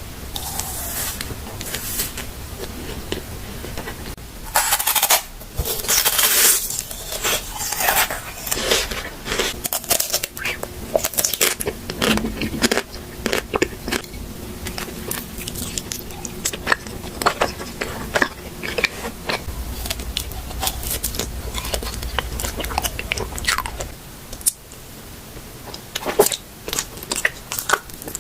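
Close-up eating sounds: someone biting into and chewing food, with many crisp, irregular crunches.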